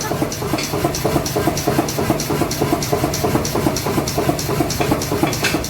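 Mechanical forging power hammer running, striking in a steady rhythm of about four blows a second over the steady hum of its drive.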